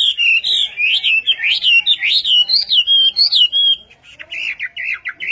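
A songbird singing loud whistled phrases that glide up and down. About two-thirds through, it switches to a quieter, rapid run of short repeated notes, about six a second.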